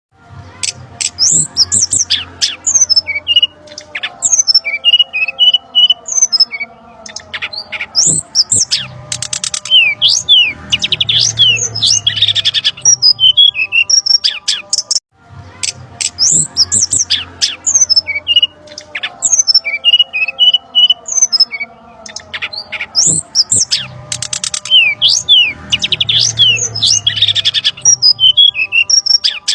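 Brown-chested jungle flycatcher calls played as a bird-lure recording: a busy run of chirps, trills, squawks and short falling whistles. The sequence repeats as a loop about every 15 seconds.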